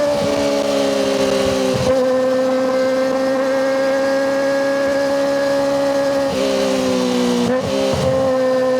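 Kawasaki ZX-25RR's 250 cc inline-four engine through a Yoshimura Hepta Force exhaust, running at high revs with a steady high-pitched wail. The pitch dips briefly and recovers about two seconds in and twice near the end.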